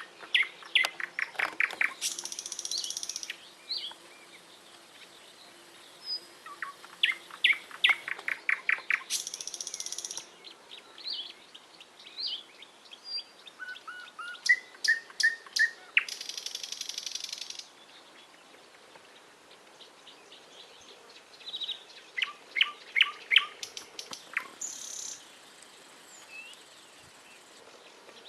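A songbird singing the same song over and over, about four times. Each song is a quick run of short notes that ends in a buzzy, high-pitched trill lasting about a second.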